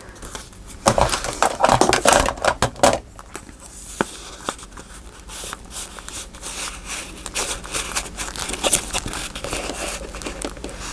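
Paper rustling and crinkling as paper is worked by hand, with irregular scrapes and a louder flurry about a second in, and a single sharp tick near the middle. A card is being pushed into a paper pocket that has been glued tight.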